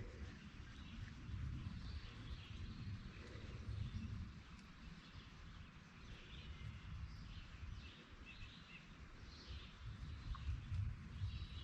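Faint birds chirping now and then over a low, uneven rumble of outdoor background noise.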